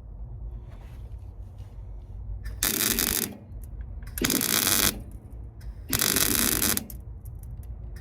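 Welder laying short stitch welds on car sill steel: three bursts of under a second each, about one every second and a half, with a fourth starting at the end. It is a patch panel being tacked onto the sill.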